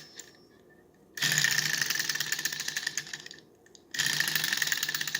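Model Stirling engine with an alcohol burner, spun by hand, clattering rapidly for about two seconds and then running down, twice. It is not yet hot enough to keep running on its own.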